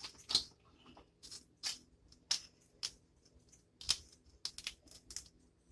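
Seafood shells being cracked and peeled by hand while eating a seafood boil: short, irregular crackles and snaps.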